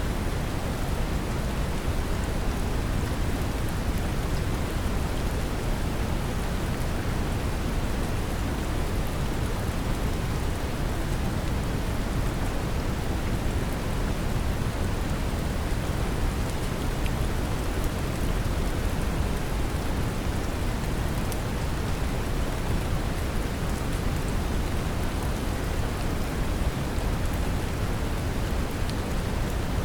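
Steady brown noise, a deep even rumbling hiss, mixed with a continuous wash of gentle rain with faint drop ticks.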